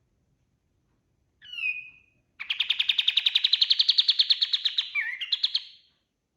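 Kapas tembak songbird singing: a short sliding note about a second and a half in, then a fast, even trill of about a dozen notes a second, climbing slightly in pitch, ending in a few quick varied notes.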